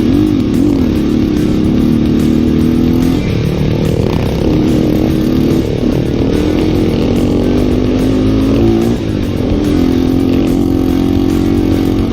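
Yamaha Vixion trail motorcycle's single-cylinder four-stroke engine running under throttle, its pitch rising and falling at first and then holding steady for stretches. The owner says the engine is down on compression, which leaves it short of pull. Background music plays underneath.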